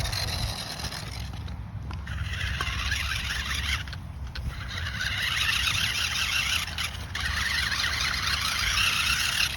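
Small electric RC car driven through grass: a hissing, scraping swish of grass against the car and its spinning tyres, in runs of two to three seconds with short breaks between them, over a low rumble.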